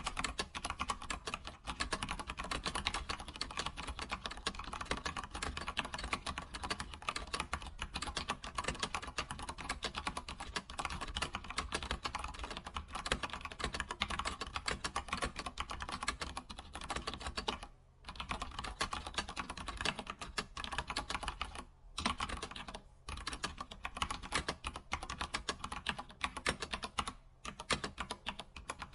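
Computer keyboard typed on quickly and continuously, a dense run of key clicks with a few short pauses, near 18, 22 and 27 seconds in.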